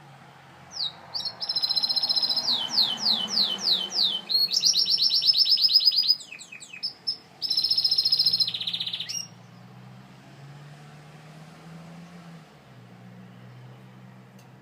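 Gloster canary singing: rapid high trills and rolls, with a run of quick downward-sweeping notes, stopping about nine seconds in.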